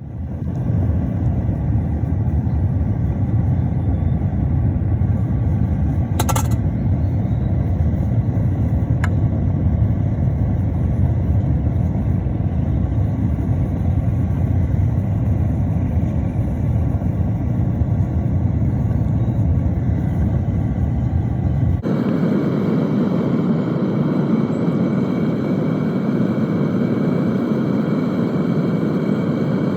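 Metal-melting furnace running with a loud, steady rumbling roar, its deep rumble cutting out abruptly about three quarters of the way through. A single sharp clank about six seconds in.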